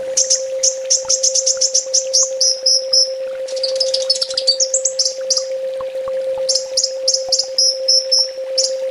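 Kolibri ninja (brown-throated sunbird) singing: fast runs of high, sharp chips that speed up into trills, with a jumbled twittering phrase in the middle. A steady low hum tone sounds underneath throughout.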